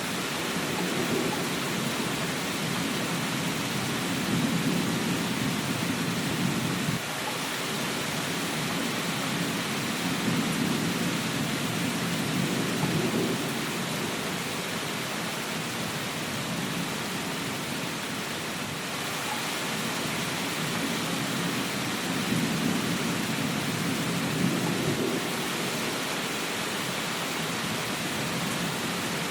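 Steady rain hissing, with low rolling rumbles of thunder that swell and fade several times; one rumble stops suddenly about seven seconds in.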